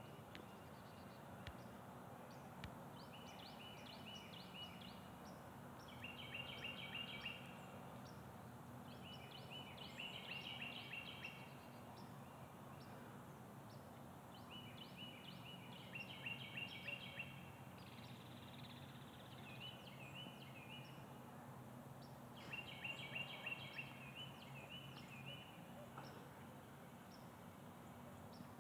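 A songbird singing short, high phrases of quickly repeated notes, coming back every few seconds, over a steady low hum.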